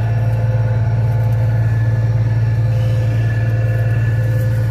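Combine harvester running with a steady low drone, with faint steady whining tones above it.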